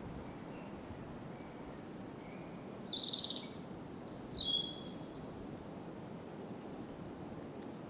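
A songbird sings one short phrase of high, stepped notes about three seconds in, over a steady background hiss of wind through branches.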